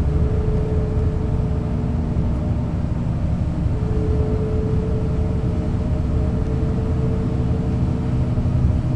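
Setra S 315 UL bus with its ZF gearbox, driving: a steady low diesel drone with a gear whine over it that drops out about two seconds in and returns near four seconds.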